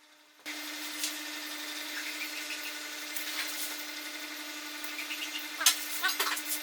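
A small power tool working wood: a steady motor hum under a rubbing hiss, with a few sharp clicks near the end.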